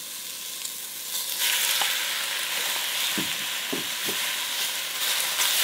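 Chopped pork hitting hot olive oil with sautéing garlic and onion in a glass pot: the frying sizzle jumps much louder about a second and a half in and keeps going. A few light knocks follow as the pork is stirred with a wooden spoon.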